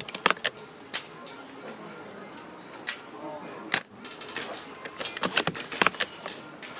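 Sharp clicks and snaps of airsoft rifles being fired and worked, with single reports about a second, three and nearly four seconds in and a dense cluster of clicks between about four and six seconds, over a faint steady high tone.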